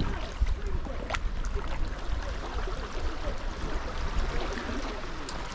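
Sea water lapping and gurgling around a sea kayak's hull as it paddles along, with a sharp splash or knock about a second in.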